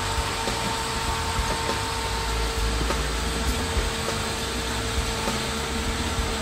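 Toyota Land Cruiser's engine running steadily at low speed as the truck crawls forward through snow.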